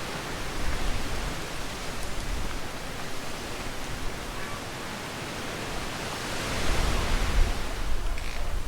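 Gusty wind blowing through trees and leaves, with wind buffeting the microphone. The gust eases in the middle and swells again about six and a half seconds in.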